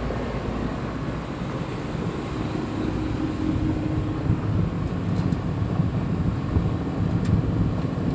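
A generator and the package air-conditioning unit it powers, running together: a steady low drone with a few faint clicks.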